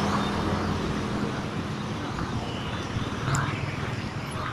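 Steady road-traffic noise with the low hum of a running engine, which fades about a second in.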